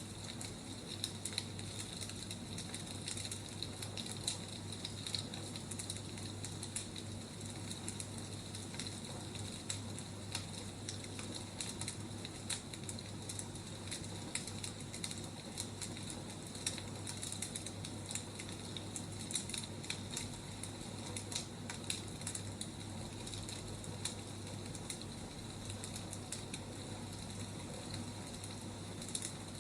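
Wood fire crackling: a steady hiss with frequent small, irregular pops and snaps of burning firewood.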